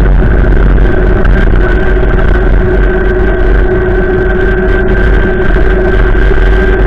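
Strong wind rushing and rumbling over the microphone, loud and steady, with a steady high whistle and a lower hum running through it.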